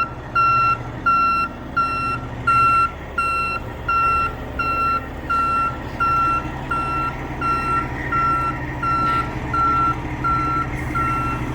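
Backup alarm of a mobile crane beeping steadily, a little under two beeps a second, over the low running of its diesel engine while the crane repositions.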